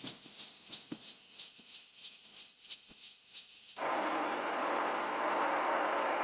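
Faint, soft high-pitched ticking about four times a second. Nearly four seconds in it cuts suddenly to a steady, louder, high-pitched chorus of insects.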